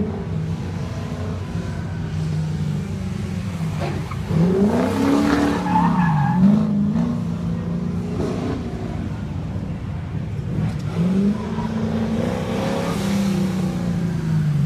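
Car engine revving up and falling back again and again as the car accelerates and slows through an autocross cone course, with tires squealing in the corners. The engine note climbs sharply about four seconds in and drops back around six seconds.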